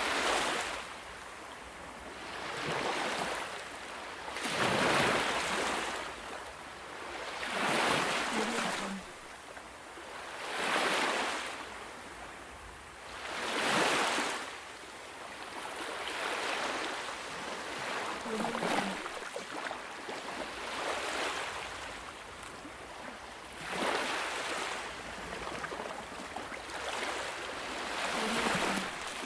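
Ocean waves washing in and drawing back, one swell of surf about every three seconds.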